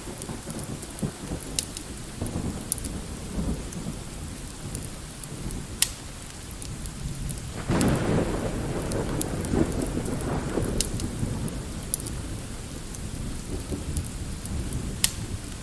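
Steady light rain with rolling thunder. A louder thunder rumble begins about halfway through and fades away over several seconds. Sharp crackles and pops from a wood fire are scattered throughout.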